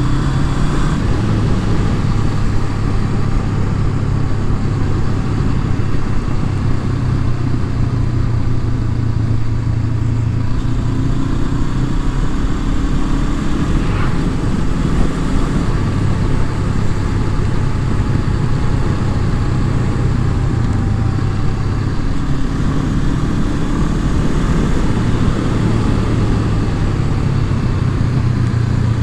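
Honda CB500F's parallel-twin engine running steadily while riding, its note drifting slightly up and down.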